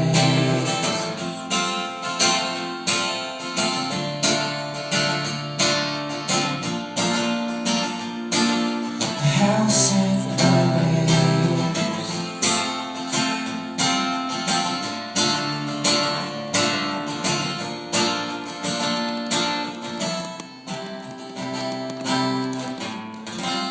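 Acoustic guitar strumming a steady chord pattern, about two strokes a second, as the instrumental outro of a song, thinning out near the end.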